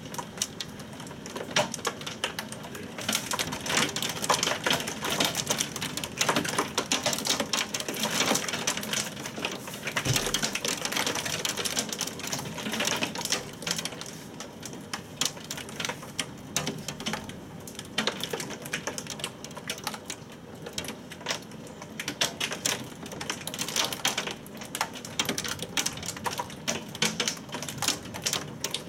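A storm downpour pelting a hard surface: a dense, rapid clatter of drop or hailstone impacts over a steady hiss. It grows heavier a few seconds in and eases and swells again later.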